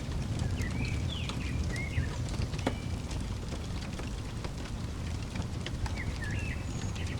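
Wood fire crackling with scattered sharp pops over a steady low rumble, while a small songbird chirps short phrases of quick up-and-down notes, once about half a second in and again about six seconds in.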